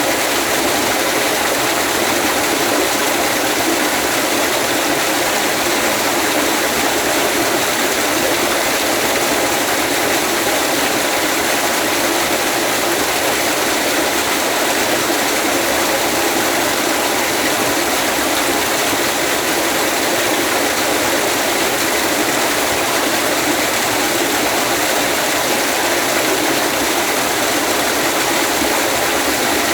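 Steady rushing of a waterfall, an even noise of falling water that holds at one level throughout.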